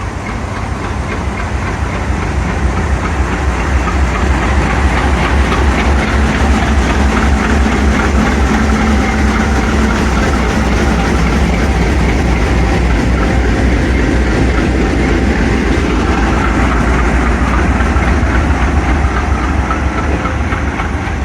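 AGE30 'Blue Tiger' diesel-electric locomotive's engine running with a steady deep throb, growing louder over the first few seconds.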